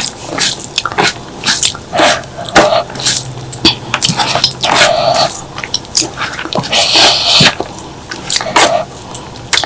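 Close-miked eating of spicy stir-fried clams: wet chewing and lip-smacking clicks, with several short slurps.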